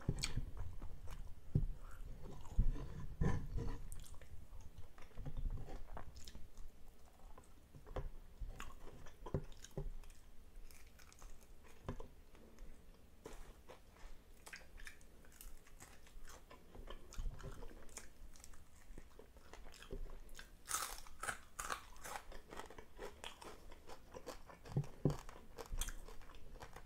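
Close-up chewing and crunching of crispy deep-fried tilapia eaten by hand, with sharp bites into the fried fin and tail. A run of louder, crisper crunches comes about three quarters of the way through.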